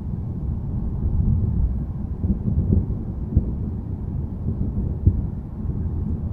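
Low, continuous rumble of distant thunder, rolling and swelling with a few brief louder pulses in the middle.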